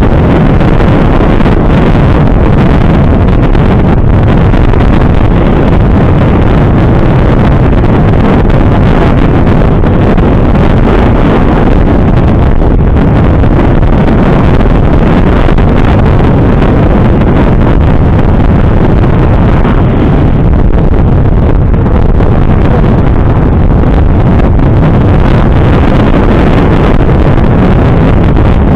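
Loud, steady wind rush on the microphone over the road and engine noise of a moving motorcycle.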